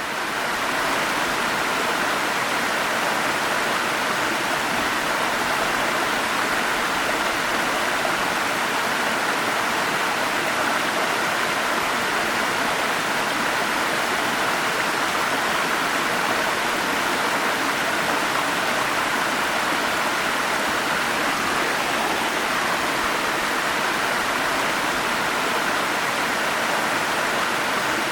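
Forest stream flowing steadily over cascades: a constant rushing of water, fading in over the first second.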